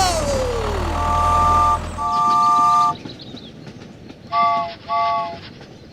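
A vehicle horn honks twice long and then twice short, over a low engine rumble that stops about two seconds in. A falling whistle-like glide sounds at the very start.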